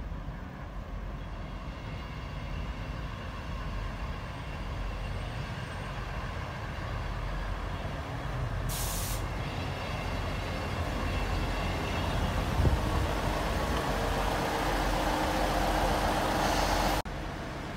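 Class 158 diesel multiple unit running into the station and slowing alongside the platform, growing steadily louder as it draws close, with its brakes squealing. A short sharp hiss of air comes about nine seconds in. The sound drops suddenly near the end.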